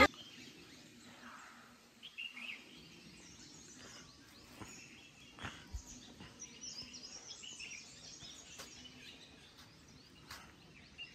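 Faint outdoor ambience with scattered short bird chirps and a few soft clicks.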